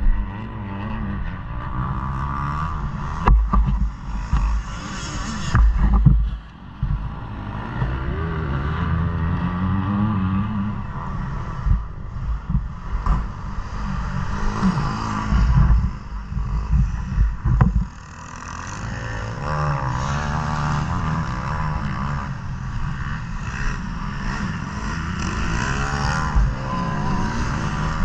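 KTM 250 motocross bike's engine revving up and down continuously as it is ridden around a track. Several heavy low rumbles come and go, the longest around the middle.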